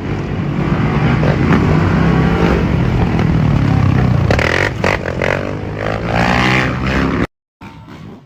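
Motorcycle engines running loudly in street traffic, cutting off abruptly near the end.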